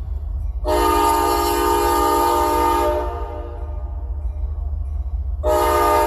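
Diesel freight locomotive's multi-chime air horn: one long blast of about two and a half seconds, then a second long blast starting near the end, over a steady low rumble. The horn is sounded for a level crossing whose gates have just come down.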